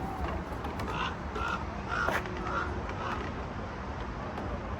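A raven calling: a quick run of about five or six short caws, roughly two a second, in the first half.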